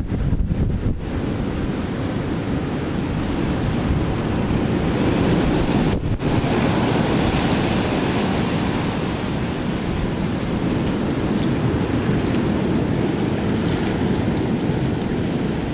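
Hurricane Sandy's storm wind blowing hard and buffeting the microphone with a deep rumble, swelling to a stronger gust about halfway through.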